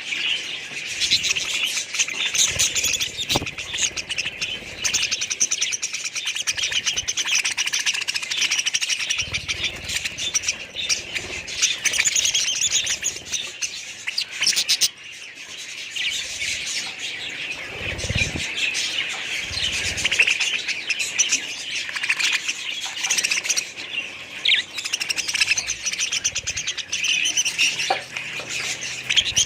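Budgerigars chirping and chattering continuously, many calls overlapping.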